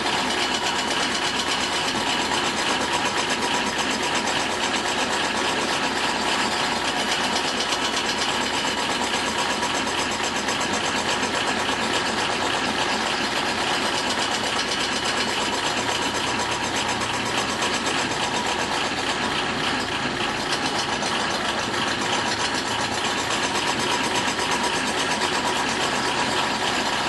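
1991 Ford Crown Victoria's V8 idling steadily and awfully low on its first run after sitting unstarted for four years.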